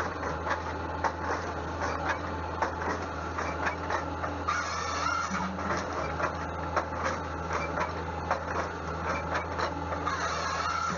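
Sawmill machinery running: a steady low hum under frequent irregular clattering knocks, with brief squeals about five seconds in and again near the end.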